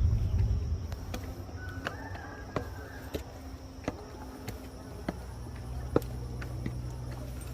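Insects shrilling steadily on one high note, with scattered sharp clicks and taps throughout.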